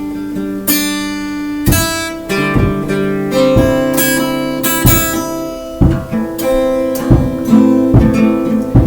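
Acoustic guitar played solo without singing: strummed chords about once a second, the notes ringing on between strokes.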